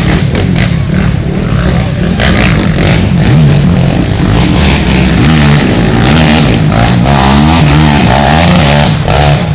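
Racing ATV engines running loud, their pitch rising and falling over and over as the quads accelerate and back off.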